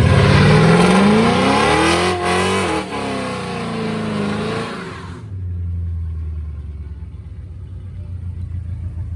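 A car engine revving hard, its pitch climbing for about two seconds and then falling back, before it drops to a steady idle about five seconds in.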